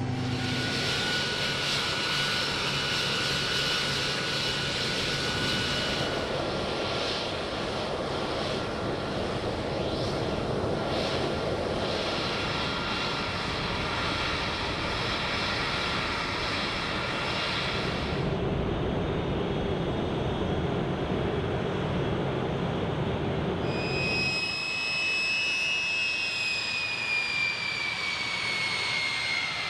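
Aircraft turbine engine noise: a steady rush with a thin high whine. Near the end the whine slides down in pitch as the aircraft passes.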